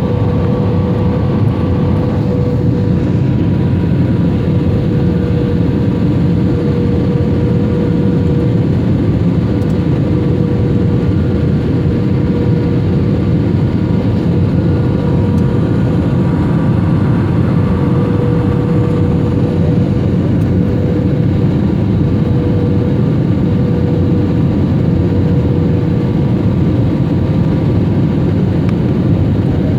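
Jet airliner engines and airflow heard from inside the passenger cabin during landing: a steady, even roar with a constant hum and no pauses.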